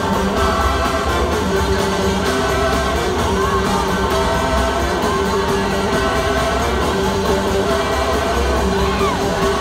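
Blues-rock band playing live in a large hall, with singing and guitar over a steady full-band backing.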